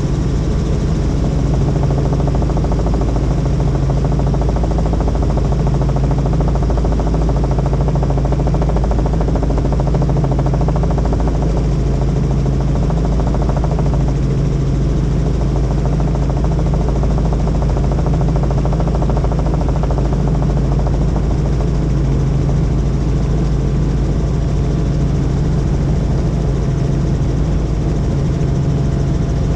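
Helicopter in flight: the rotor and engine make a loud, steady drone with a strong low hum that holds even throughout.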